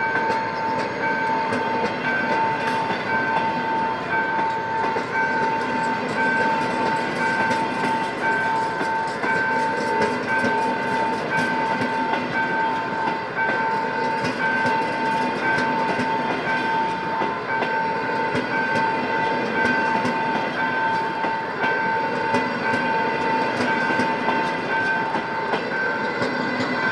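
A train of CNR passenger coaches rolling steadily past at close range, the wheels clacking over the rail joints. Over it a level-crossing warning signal sounds the whole time: one steady tone and a higher tone beeping on and off.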